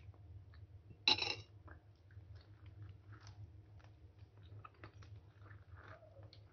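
Close-up mouth sounds of someone eating mango: a louder short mouth sound about a second in, then soft chewing and small lip smacks and clicks. A low steady hum runs underneath.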